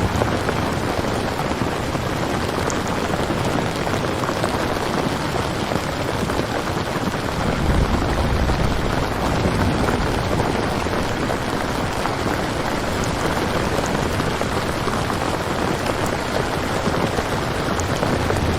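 Steady heavy rain, an even hiss of drops, with a low rumble swelling up about eight seconds in and fading a couple of seconds later.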